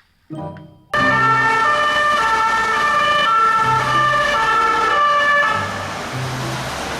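Toy police car's electronic siren sound effect, stepping between pitches. It starts loud about a second in and drops somewhat in level near the end.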